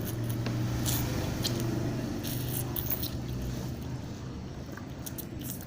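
Eating noises of bakso, with bites, chewing and a few sharp clicks of spoon or bowl, over a steady low hum that is strongest in the first few seconds and then fades.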